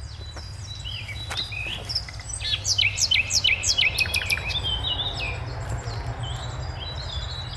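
A songbird singing a quick run of sharp, downslurred whistled notes, about six a second, over a couple of seconds, with shorter high chips before and after. A steady low rumble runs underneath.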